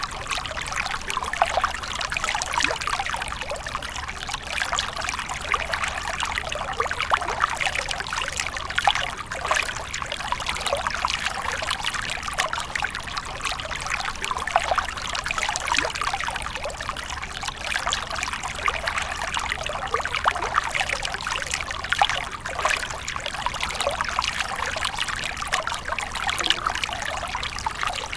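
Water splashing and trickling continuously, a dense, irregular run of small splashes with no break.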